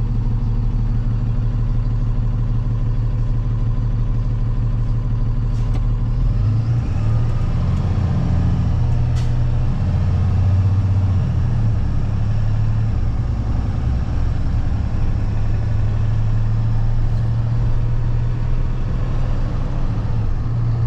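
Box truck engine running, heard from inside the cab while driving, a steady low hum whose note shifts and grows stronger from about six seconds in as the truck pulls away.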